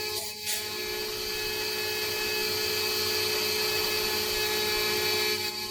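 Hydraulic pump of a 1/14-scale SFROG E400 RC excavator running with a steady whine while the boom lifts slowly.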